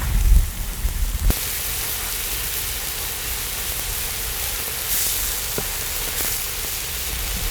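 Small octopus and kimchi frying on a cauldron-lid griddle: low bumping for about the first second, then a sudden change to a steady, even sizzle.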